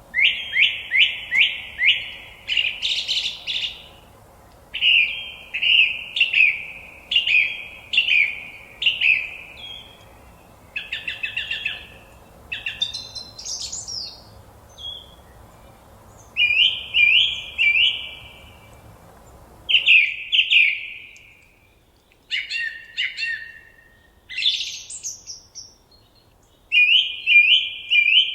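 Forest birdsong: phrases of four to six short, down-slurred notes repeated with brief pauses between, mixed with a few differently shaped calls. A faint low background rumble drops away about two-thirds of the way through.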